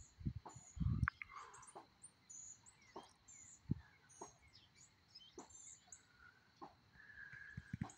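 Several small birds chirping and calling in quick short notes, with wind gusting on the microphone for about the first second.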